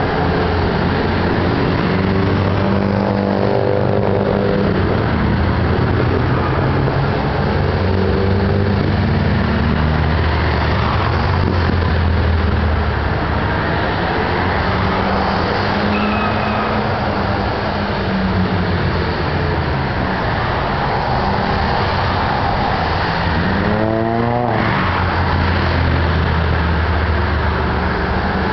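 Car engines running steadily with passing traffic, and one engine revving up sharply near the end.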